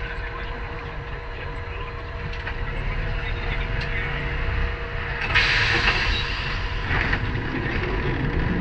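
Lisbon Tram 28 streetcar running: a steady low rumble of wheels on rails under a faint steady hum. A burst of hissing noise comes about five seconds in and lasts about a second, with a shorter one just after.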